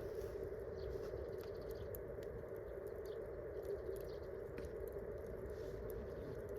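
Wood campfire crackling, with scattered small pops and ticks over a steady hiss.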